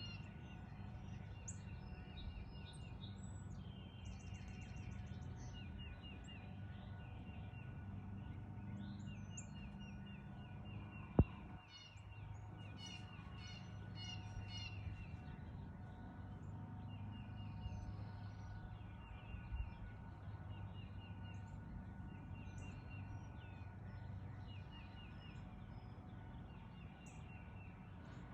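Backyard songbirds singing and chirping, with repeated rapid trills of short notes and scattered higher chirps, over a steady low hum. A single sharp click about eleven seconds in.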